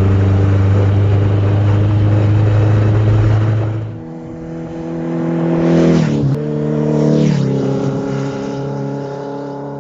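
Car engine running while driving. It runs steadily, then eases off about four seconds in, and its pitch steps down twice near the middle as the gears change.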